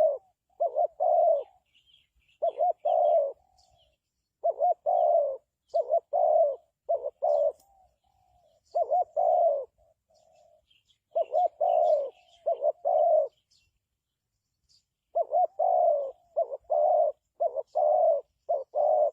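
Spotted dove cooing: repeated phrases of two or three low coos with short pauses between, and a longer pause about two thirds of the way through. Faint chirps of small birds sound in the background.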